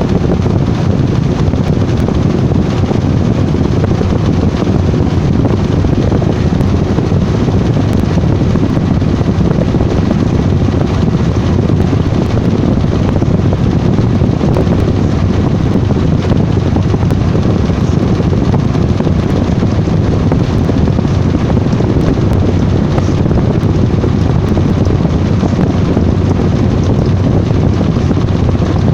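Washing machine running: a loud, steady, even rumble with no breaks.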